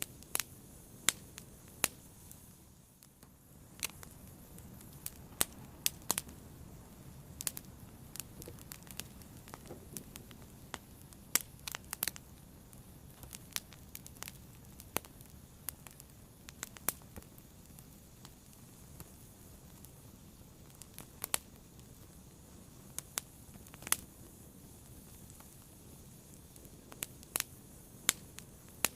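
Wood fire burning with irregular sharp crackles and pops over a steady low rush of flame.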